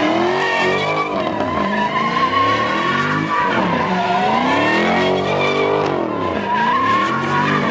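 Car doing a burnout: the engine revs up and down over and over while the spinning rear tyres squeal steadily.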